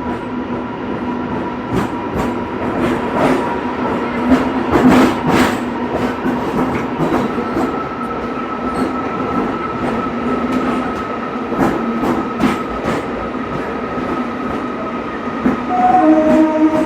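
Indian Railways passenger train running along the track, its wheels clicking over rail joints under a steady whine. A horn starts sounding near the end.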